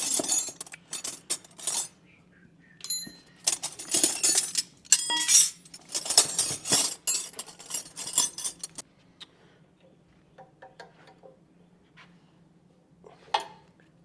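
Metal hand wrenches clinking and clattering against each other as they are sorted through, in repeated clusters for most of the first nine seconds, then a few light taps and one sharper click near the end.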